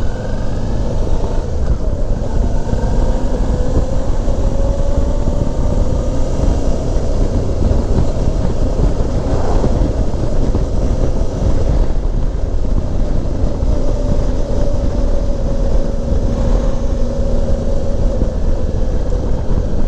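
Suzuki V-Strom 650 motorcycle engine running at a steady road speed, its pitch drifting slowly as the throttle changes, under heavy wind rumble on the camera microphone.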